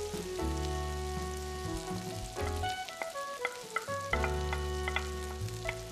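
Squid pieces sizzling as they drop into a hot pan of frying sofrito, with a scatter of sharp clicks as a wooden spatula pushes them off a plate. Background music of sustained chords, changing every second or two, plays throughout.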